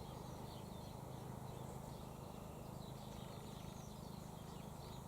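Quiet garden background: a steady low hum with a few faint, short bird chirps.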